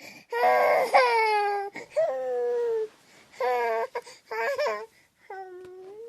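Baby crying: a string of wailing cries, most falling in pitch, with short breaks between them. A long, steadier wail starts about five seconds in.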